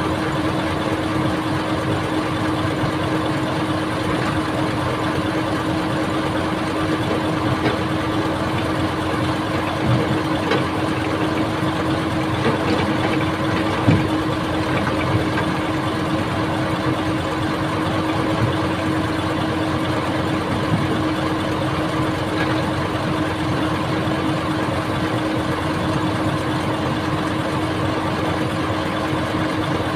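Old excavator's diesel engine running steadily, with a few short knocks, the loudest about 14 seconds in.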